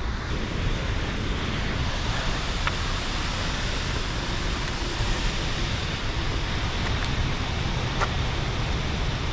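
Waterfall rushing steadily, a constant even wash of falling water with no change.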